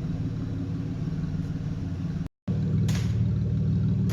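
A vehicle engine idling with a low, steady rumble. It cuts out for a split second a little past halfway, then carries on somewhat louder.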